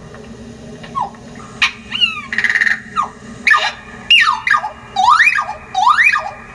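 Recorded bird calls edited into a creature sound effect: a run of sharp whistles sweeping up and down in pitch, with a harsh raspy buzz about two and a half seconds in and a few short clicks.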